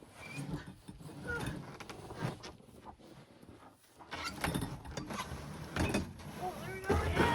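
A freezer being shimmied across the ground, rocked from corner to corner: irregular knocks and scrapes, coming thicker in the second half.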